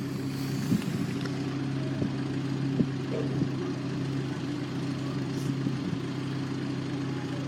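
A vehicle engine idling steadily, a low even hum with a few faint knocks over it.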